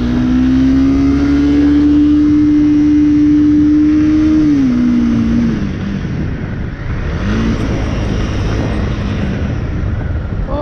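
Motorcycle engine running steadily under way. About four to five seconds in its pitch drops as the throttle is rolled off, and near seven seconds it picks up again at a lower, steady pitch.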